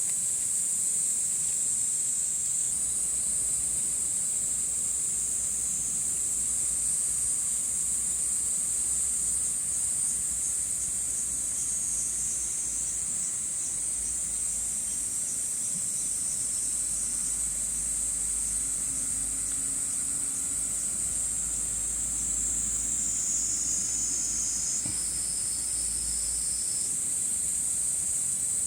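Steady, high-pitched chorus of insects trilling, with its pitch shifting slightly a little before the end.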